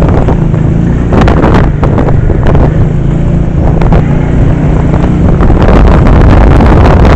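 An engine running steadily with a low hum, with heavy wind buffeting the microphone and growing louder near the end.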